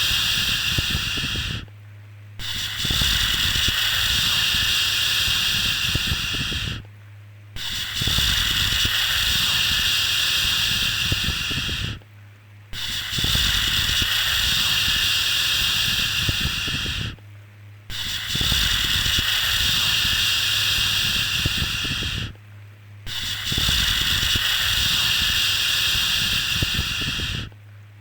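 A soothing 'shhh' shushing sound for calming a baby to sleep, held for about four and a half seconds at a time with a short break between, repeating evenly about every five seconds, over a faint steady low hum.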